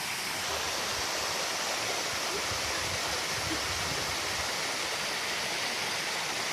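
Waterfall, water pouring in a steady, unbroken rush.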